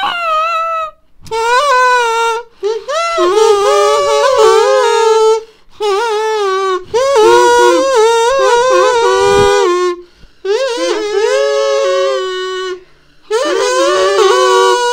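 A plastic kazoo buzzing out a tune, hummed in several short phrases with brief breaks between them.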